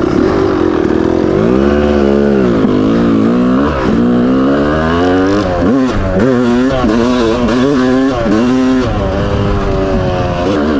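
Yamaha YZ250 two-stroke single-cylinder dirt bike engine revving up and down repeatedly while being ridden, its pitch climbing and dropping again and again with the throttle.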